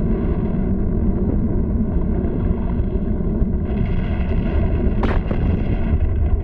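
Sound effect of an erupting volcano: a continuous, loud, heavy low rumble of blasts, with a sharp crack about five seconds in.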